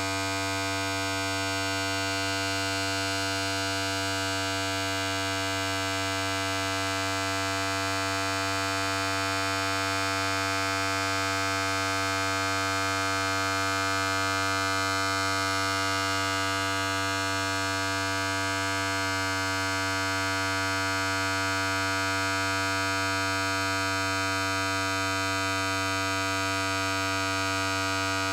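Electric hair clipper running continuously: a steady, loud buzz with a strong low hum and many overtones. The tone changes slightly about two-thirds of the way through.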